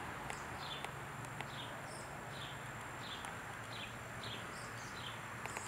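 Outdoor ambience: a small bird's short falling chirp repeated about twice a second over a steady faint background hiss, with a thin, steady high whine.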